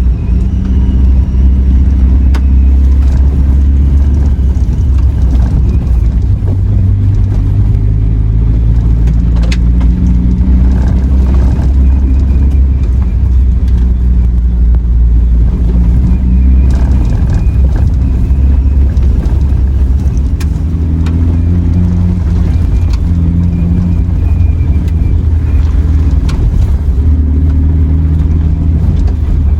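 Suzuki Jimny Sierra JB74's 1.5-litre four-cylinder engine running as it drives a gravel forest road, its pitch shifting up and down with the throttle, with occasional knocks from the tyres and stones.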